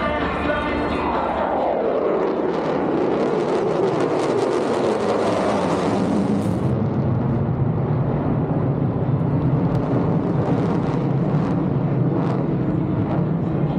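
Fighter jet flying past at an air show: the engine noise drops steadily in pitch as it goes by in the first few seconds, then carries on as a loud, steady jet rumble.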